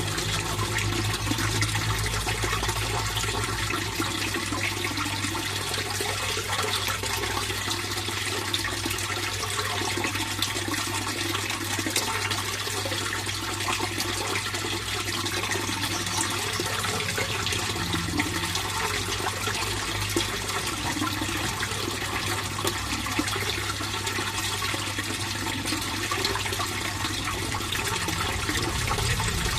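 Fish pond water flowing and splashing steadily, with a steady low hum underneath.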